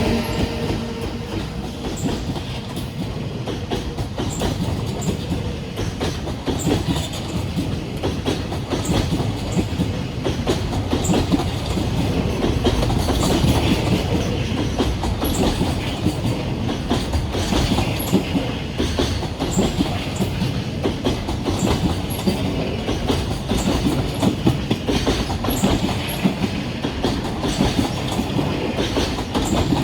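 Freight train of Koki container flatcars rolling past, a steady rumble with wheels clattering over rail joints.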